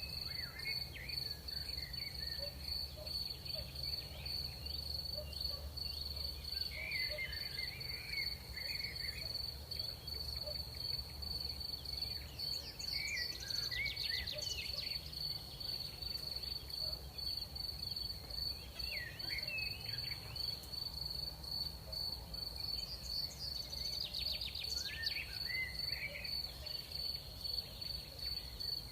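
Crickets trilling in one steady, unbroken high tone. Bursts of short chirping calls from another animal come about every five or six seconds, over a low background rumble.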